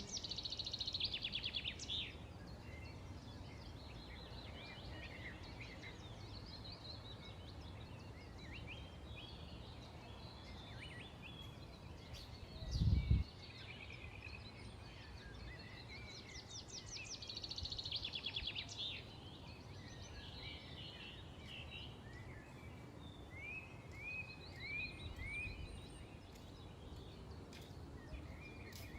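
Several songbirds chirping and singing over a steady low background rumble, with a burst of rapid trilling song at the start and another about two-thirds of the way through. A brief low thump near the middle is the loudest sound.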